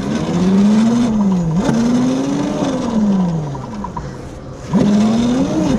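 Razor MX350 electric mini dirt bike's motor whining, rising in pitch as it speeds up and falling as it slows, in three surges.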